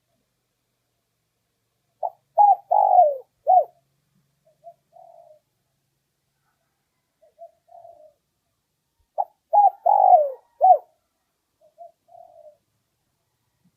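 Spotted dove cooing: two song phrases, each a quick run of four loud coos, one of them a long falling note, followed by a few soft trailing notes. This is the call used as a lure to bring wild spotted doves in.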